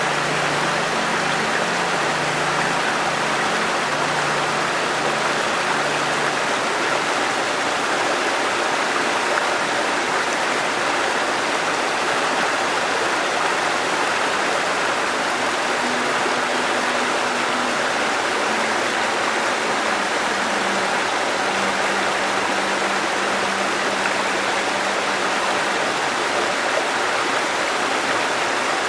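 A river flowing: a steady, even rush of running water. Faint low steady tones sit beneath it near the start and again in the second half.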